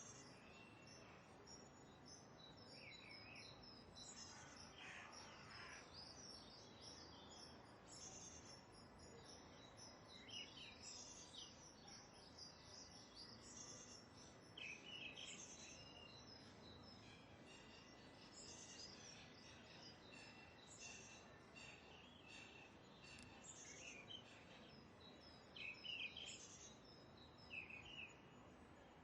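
Faint birdsong: many short chirps and whistled calls from several birds, over a low steady background hiss.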